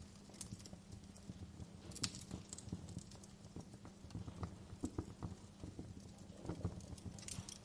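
Wood fire crackling in a fireplace: irregular snaps and pops over a steady low rumble, with a sharper pop about two seconds in.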